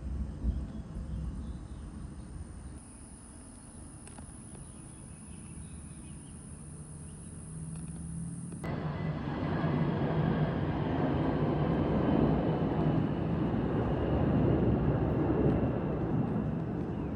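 Jet aircraft passing near an airport. A low rumble swells suddenly into a loud engine roar about a third of the way in, with a faint whine slowly falling in pitch, and it eases a little near the end.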